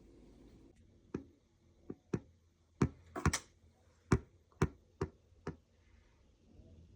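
A series of about nine sharp taps or clicks at uneven spacing, over a faint low hum.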